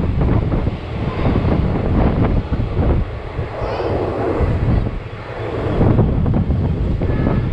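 Passenger train running along the line, wheels clattering on the rails, with wind buffeting the microphone.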